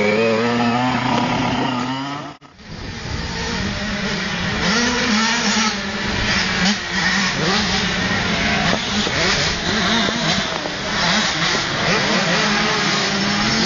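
Several motocross bikes' engines revving and rising and falling in pitch as the bikes race around the track. The sound drops out sharply for a moment about two and a half seconds in, then the engines pick up again.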